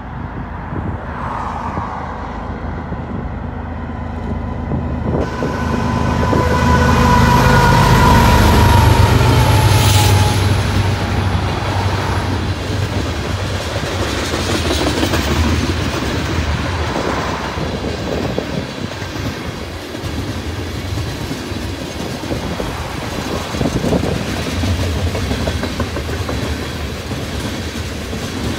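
BNSF diesel freight locomotives rumble past, building to their loudest about a third of the way in, with a high tone that drops slightly in pitch as they go by. After them, loaded tank cars roll past steadily, wheels clacking over the rail joints.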